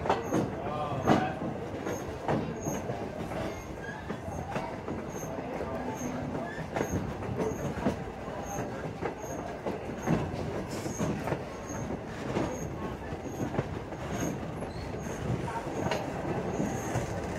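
Passenger railroad car rolling along the track, a steady rumble with irregular wheel clicks and knocks and occasional wheel squeal, heard from aboard the train.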